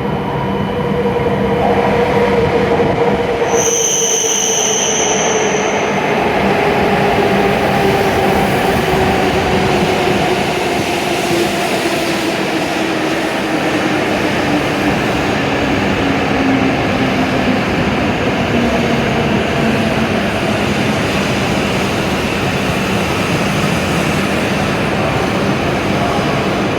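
W7-series Shinkansen train pulling into the platform and braking: a steady rush of the train with a motor whine that falls slowly in pitch as it slows. A brief high tone sounds about four seconds in.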